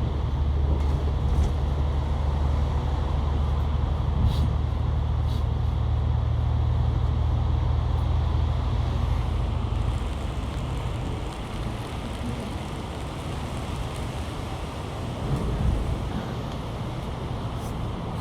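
Inside a moving Hong Kong bus: the engine's low drone and road noise run steadily, and the drone eases off about ten seconds in. A few small rattles and clicks come from the cabin.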